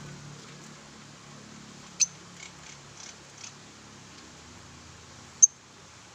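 Lovebirds giving short, sharp, high-pitched chirps, two loud ones about two seconds and five and a half seconds in with fainter ones between, over a steady low hum.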